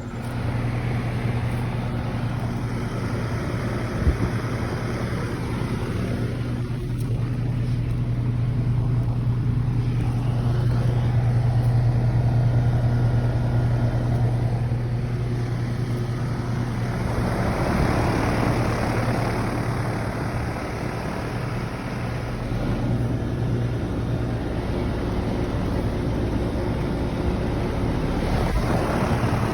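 Outdoor unit of a residential central air conditioner or heat pump running: a steady compressor hum under the rushing air of the condenser fan. The air noise grows louder around eighteen seconds in.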